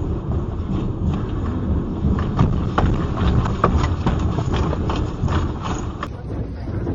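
Low rumble with a rapid, irregular clatter of knocks and rattles, busiest in the middle: things shaking and rattling during an earthquake. The sound changes abruptly about six seconds in.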